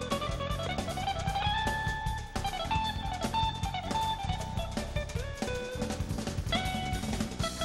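Live jazz-fusion instrumental: a guitar lead line over drum kit and bass. The guitar glides up in pitch and holds a high note, then carries on with shorter held notes.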